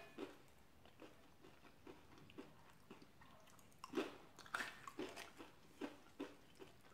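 Soft mouth sounds of chewing and crunching Frito corn chips with chili: a string of short, irregular crunches, a little louder about four seconds in.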